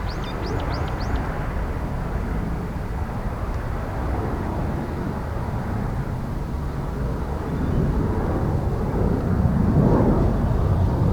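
Jet airliner engines making a steady low rumble at the airport, swelling over the last few seconds. A few short high chirps come right at the start.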